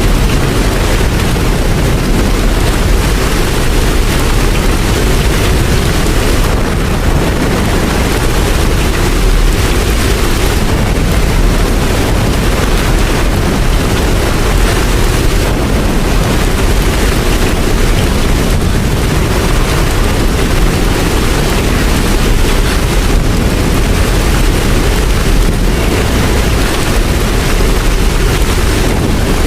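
Steady rain, a loud even wash of noise with a heavy low rumble beneath it and no breaks.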